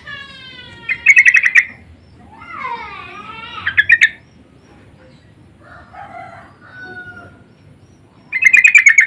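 Yellow-vented bulbuls (trucuk) calling back and forth: loud, fast chattering bursts three times, about a second in, around four seconds and near the end, with softer sliding, warbling whistles between them.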